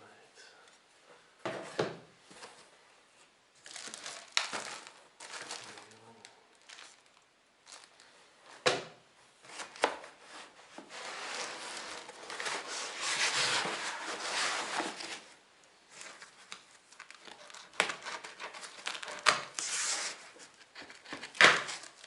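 Packaging being unwrapped: crinkling and tearing rustles, with a few sharp knocks, and a longer, louder stretch of rustling around the middle.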